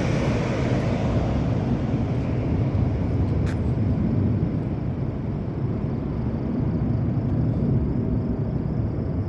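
Steady low rumble of airliner jet engines near an airport runway, the higher hiss thinning out over the course of the sound.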